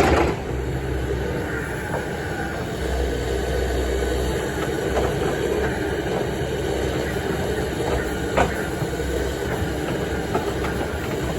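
Kobelco SK280SR excavator's diesel engine and hydraulics running steadily under load while it digs and loads dirt, with a few short knocks, the sharpest about eight seconds in.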